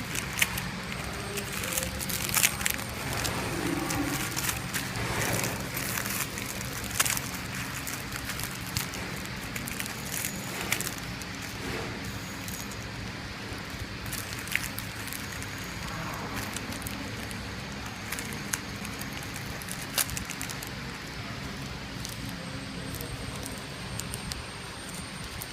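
Horizontal flow packing machine running: a steady low hum with irregular sharp clicks and ticks.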